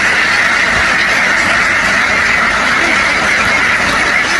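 A large flock of domestic ducks quacking all at once in a dense, steady din.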